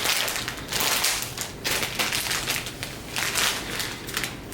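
Plastic candy packaging crinkling and rustling in a series of short bursts as it is handled and opened.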